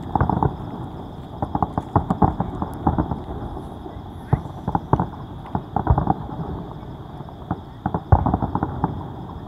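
Aerial fireworks shells bursting in quick, irregular volleys of bangs and crackles, with the loudest bang about eight seconds in.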